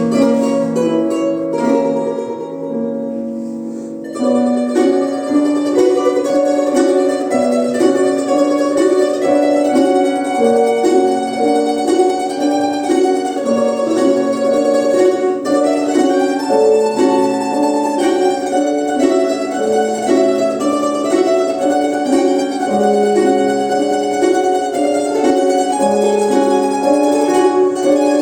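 A domra quartet playing a piece in several parts with plucked notes. A soft, fading passage gives way about four seconds in to louder, busier playing that carries on to the end.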